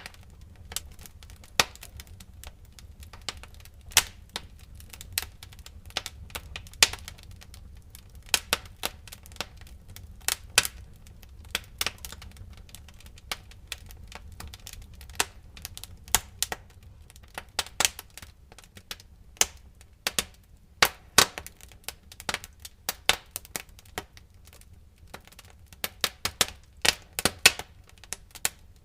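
Wood fire crackling in a fireplace: irregular sharp pops and snaps, denser in some stretches than others, over a low steady rumble.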